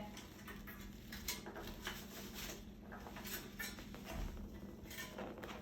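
Faint, scattered clicks and scuffs of a macaw moving about, with no calls.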